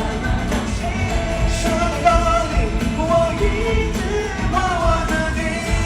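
Live pop-rock concert music: a full band playing while a voice sings the melody.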